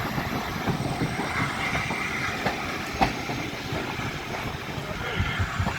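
A steam-hauled train running on the track: a steady rumble with irregular low knocks, and one sharp click about three seconds in.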